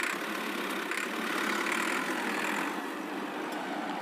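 Steady running engine noise, a tractor engine sound, even and unchanging.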